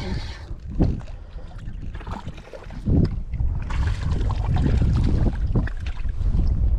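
Wind buffeting the microphone: a loud, uneven rumble that swells and dips, with water lapping at the same time.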